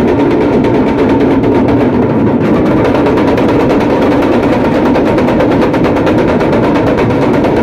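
A troupe of damrus, small hourglass drums, played together in a continuous fast rattle with no break.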